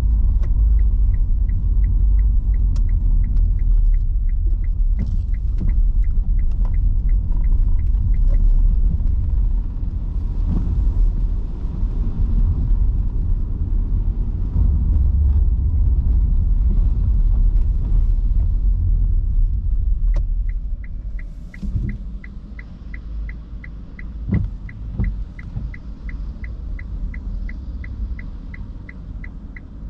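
Road and tyre rumble inside an electric car's cabin on wet city streets, dropping noticeably about two-thirds of the way in as the car slows. A turn-signal indicator ticks about two and a half times a second for the first eight seconds and again through the last third.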